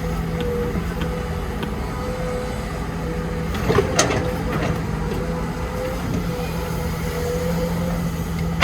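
Diesel engine of heavy construction machinery running steadily, with a brief knock and clatter about four seconds in.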